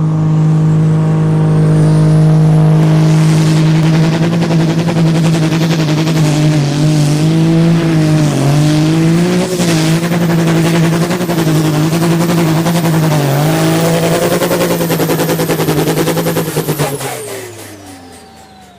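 Super Sport class pulling tractor's turbocharged diesel engine run at full throttle through a pull, its pitch dipping briefly three times mid-run. Near the end the throttle is shut and the engine and a high turbo whine wind down together.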